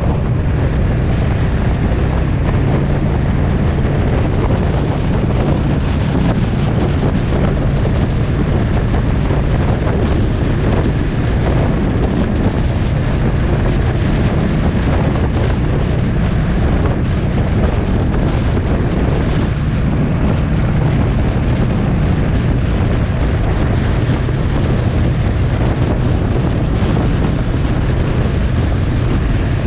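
Motorcycle cruising at a steady speed, heavy wind noise on the microphone over the engine's low steady hum.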